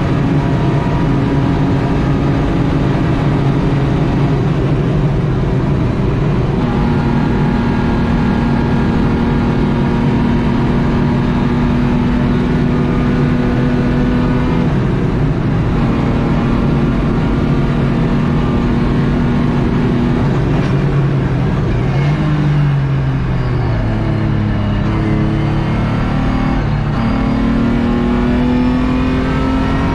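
BMW E36 track car's engine heard from inside its stripped, roll-caged cabin, running hard at near-steady high revs over road and wind noise. About two-thirds of the way through the engine note falls and wavers as the car slows, then rises again as it accelerates.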